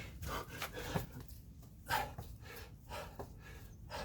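A man breathing hard in quick, noisy breaths while working through Navy SEAL burpees.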